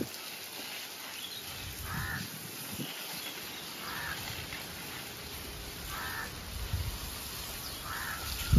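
A bird calling four times at an even pace, each call short, about two seconds apart, over the steady hiss of a garden hose spraying water.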